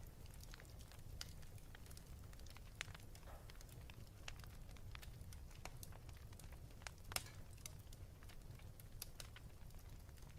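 Wood fire in a fireplace crackling: irregular sharp pops and snaps over a low steady rumble, with one louder pop about seven seconds in.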